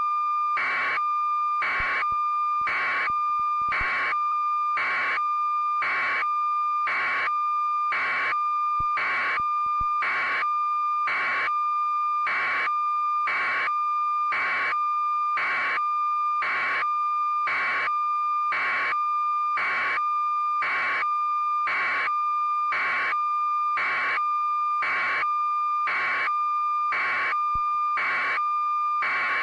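Electronic tone held perfectly steady, with a beep pulsing over it at an even beat of about once a second.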